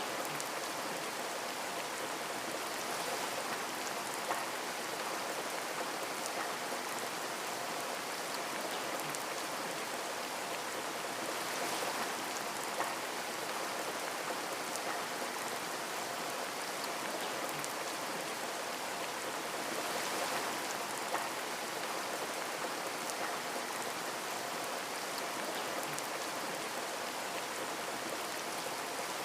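Steady rain, pattering on a surface with scattered louder individual drop ticks.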